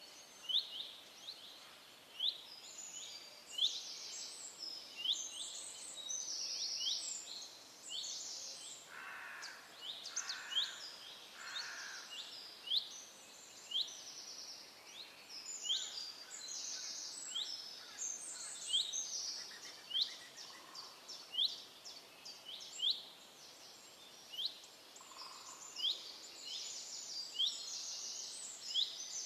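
Small birds chirping: many short, high notes that sweep downward, repeated over and over in quick runs, with a few softer, lower calls in between.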